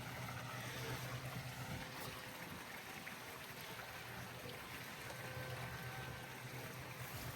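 Steady, fairly faint flow of water with a low hum, typical of a pool's circulation pump running and water moving through the system.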